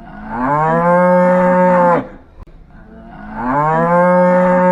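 A cow mooing twice: two long, steady-pitched moos of nearly two seconds each, a little over a second apart.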